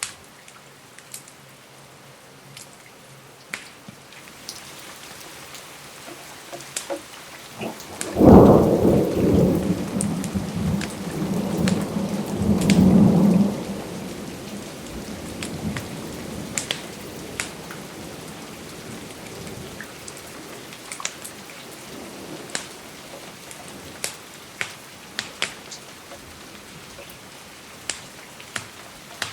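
Steady rain with scattered sharp ticks and pops, and a thunderclap that breaks suddenly about eight seconds in and rumbles on for some six seconds before fading back into the rain.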